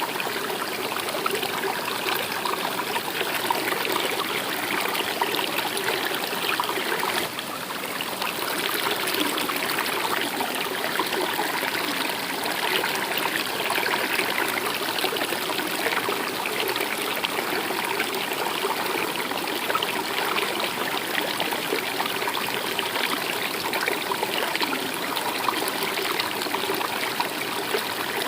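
Stream water flowing and trickling steadily, with a brief dip in level about seven seconds in.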